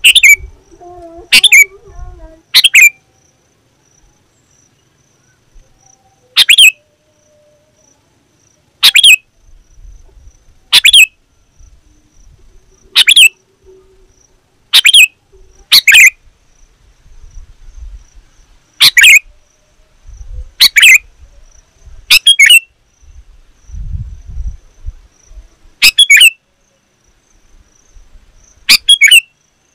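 Sooty-headed bulbul (kutilang) giving short, loud, sharp calls, about fifteen of them at irregular intervals of one to three seconds.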